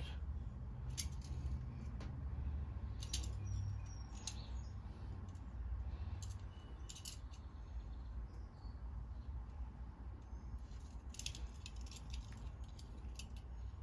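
Faint scattered clicks and light taps of small metal carburetor parts being handled, over a low steady rumble, with a few brief high chirps.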